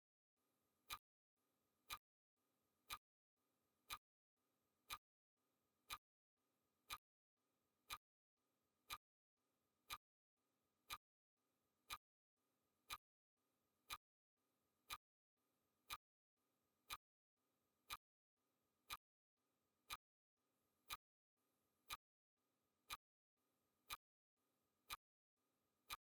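Clock-ticking sound effect: one faint, sharp tick each second, keeping a steady beat as the countdown runs.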